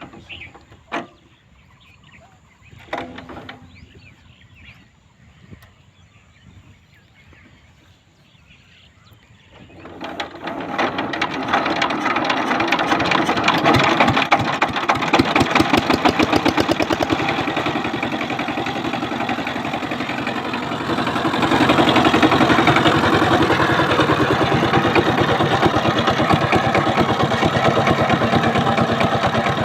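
Walk-behind power tiller's diesel engine starting: a few quiet seconds with scattered knocks, then the engine catches about a third of the way in and runs with rapid, steady firing, growing louder about two-thirds of the way through.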